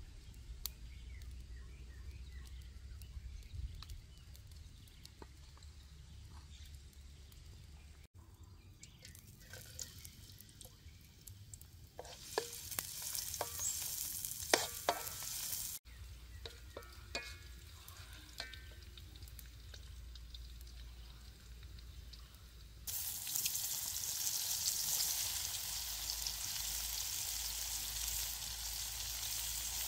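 Food frying in oil in a steel wok over a wood fire. Chopped garlic sizzles while a wooden spatula scrapes and knocks against the pan, and about two-thirds in a louder, steady sizzle starts as a wokful of mushrooms fries.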